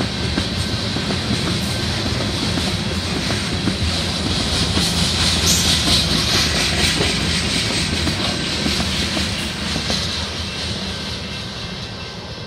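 Freight cars of a rock train rolling past close by, with steel wheels clattering and rumbling over the rails. The sound is loudest about halfway through and fades near the end as the last cars move away.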